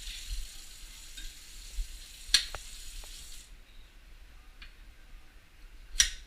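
Red fox crunching on a carrot: two sharp crunches, one about two seconds in and one near the end, with fainter clicks of chewing between. A steady hiss sounds underneath and stops about halfway through.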